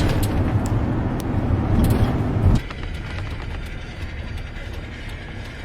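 Rumble of a moving vehicle, heard from inside. It cuts off abruptly about two and a half seconds in, leaving a quieter background with faint ticks.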